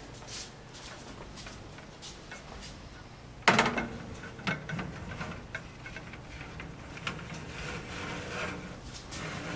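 A sharp metallic knock about three and a half seconds in, then irregular clattering and scraping as baking pans are slid into an oven.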